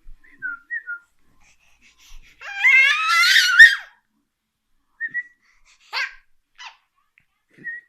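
Baby squealing at a very high pitch: a few short squeaks, then one loud, shrill squeal of about a second and a half with a wavering pitch, followed by short squeaks and breathy sounds.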